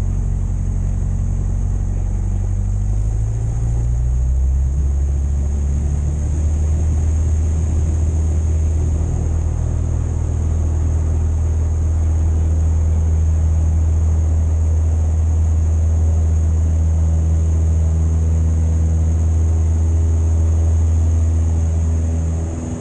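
Cessna 172's piston engine and propeller running loud, the pitch rising a few seconds in as power comes up, then holding steady at high power, with a steady high hiss over it.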